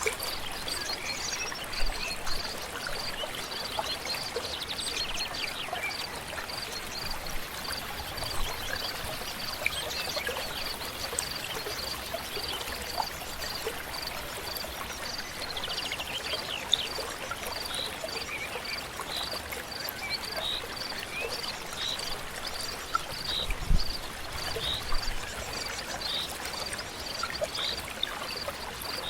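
Flowing river ambience with birds chirping, over which a steady train of short, high piping notes repeats about once or twice a second.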